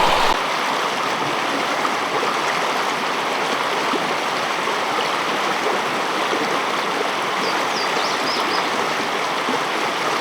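Fast-flowing brook rushing steadily over rocks and boulders, with a few faint, short high bird chirps about three quarters of the way through.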